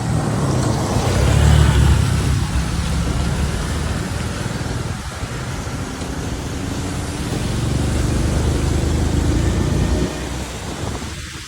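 Car driving on a rain-wet avenue: low engine and road rumble with tyre hiss. It swells about a second in, again in the second half, and drops back near the end.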